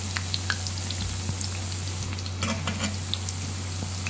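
Pinkaso dough fritters with onions deep-frying in hot oil: a steady sizzle with scattered crackles and pops, a small cluster of pops about two and a half seconds in.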